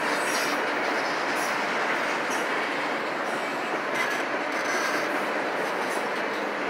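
Freight train of autorack cars rolling past: a steady rumble and clatter of steel wheels on the rails, with short high-pitched squeaks now and then.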